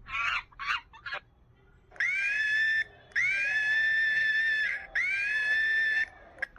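Monkey calling: a few short chattering calls, then three long, high-pitched screams, each held at a steady pitch.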